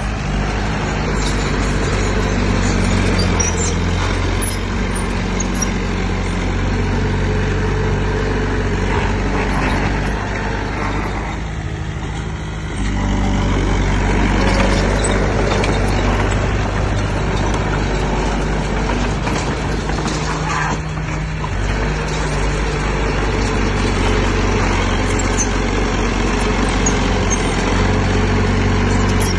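Heavy diesel engine of earthmoving machinery running steadily under load. The engine note eases off about twelve seconds in and then picks up again.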